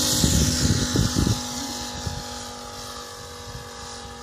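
Five-cylinder radial engine of a model aircraft running at full throttle with a steady, unchanging pitch, growing steadily fainter after about a second and a half as the plane moves away. Wind rumbles on the microphone during the first second and a half.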